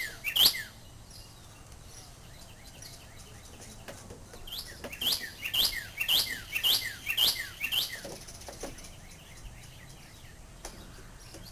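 A small bird chirping: sharp, high chirps that sweep downward, two at the start and then a run of about two a second in the middle.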